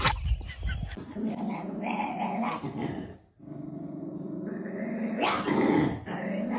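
Dog growling in two long, drawn-out stretches, the second getting louder near the end.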